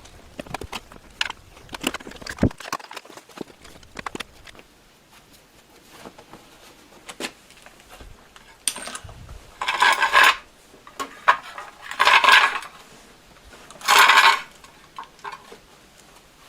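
Light clicking and clattering of metal parts being handled. Then, about ten seconds in, come three short bursts of welding crackle, each under a second and about two seconds apart: short tack welds being put on the e-bike hub motor's drive clutch so that it stays locked.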